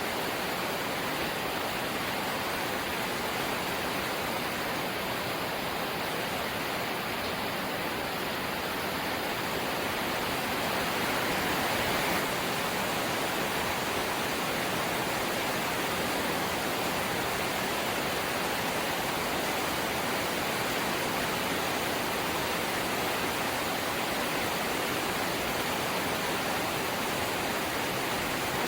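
Rain falling steadily on a corrugated zinc roof, an even rush of noise that swells slightly about ten to twelve seconds in.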